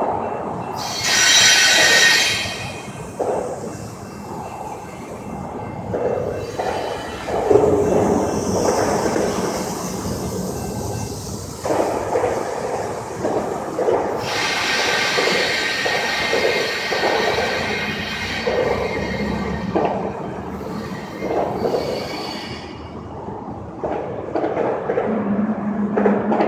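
Train running, with repeated clattering knocks and high-pitched squealing: a short loud squeal about a second in and a longer, fainter one through the middle.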